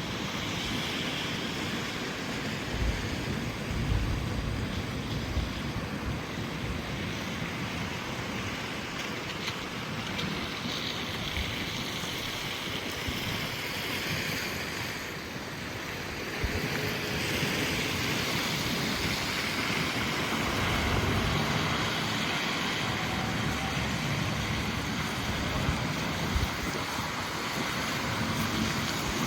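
Steady hiss of rain in a city street, with a low rumble underneath that grows a little louder a bit past the halfway point.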